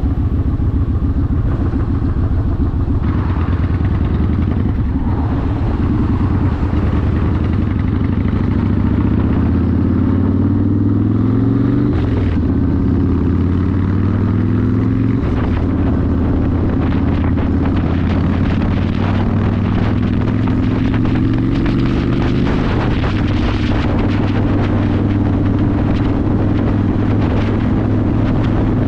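Yamaha Warrior 1700's air-cooled V-twin running through a custom exhaust under way. The engine note climbs and drops twice around the middle, as the bike accelerates and shifts up, then holds steady at cruising speed.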